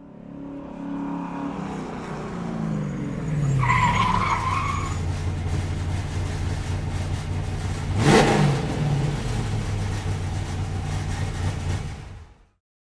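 Car engine sound effect: the engine runs, its pitch falling over the first few seconds and then holding steady. A brief squeal comes about four seconds in and a sharp, loud burst about eight seconds in, and the sound cuts off just before the end.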